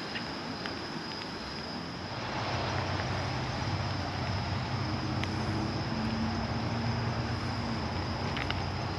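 A motor vehicle's engine running, with a steady hiss over it. It grows louder about two seconds in, and a low engine hum holds steady through the rest.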